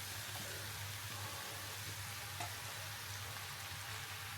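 Vegetables and sauce frying in a pan: a faint, steady sizzle over a low hum, with one light tap about two and a half seconds in as rice is added.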